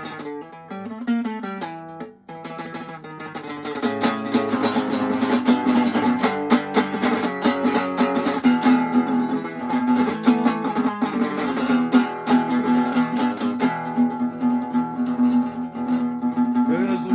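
Guitar playing an instrumental passage, picked single notes at first, then strummed chords from about four seconds in.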